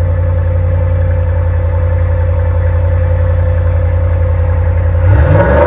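A 2016 Ram 1500's 5.7-litre Hemi V8 idles steadily through its stock exhaust and muffler, then is revved with a quick blip of throttle about five seconds in.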